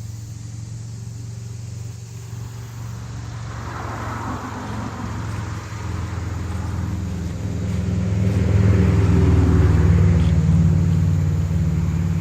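A motor vehicle's engine runs with a steady low hum that grows gradually louder over several seconds, then eases slightly near the end.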